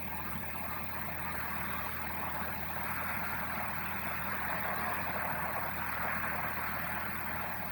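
Suzuki Wagon R idling with its air conditioning running to defrost the windows: a steady low engine hum under an even, fan-like rush of air that swells a little midway.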